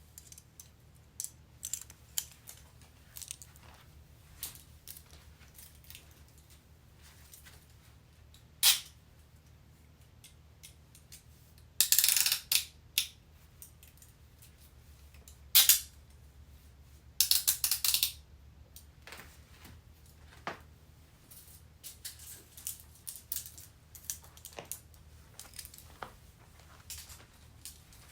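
Metal handcuffs being handled: scattered light clicks and chain jingles, with a few louder metallic rattles, the longest about twelve seconds in and again around seventeen seconds.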